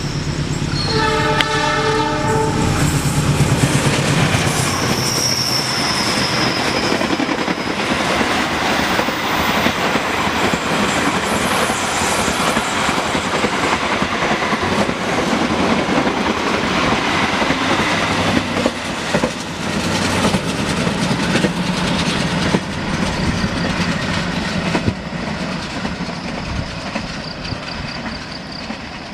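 A passenger train's diesel locomotive sounds its horn about a second in. The train then passes close by: a long, loud run of rumble and wheel clickety-clack over the rail joints, with a brief high wheel squeal on the curve around five seconds in. The sound fades toward the end.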